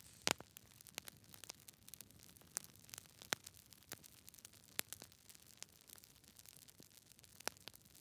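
Wood logs burning in a fireplace, crackling with irregular sharp snaps and pops over a low hiss; the loudest pop comes just after the start.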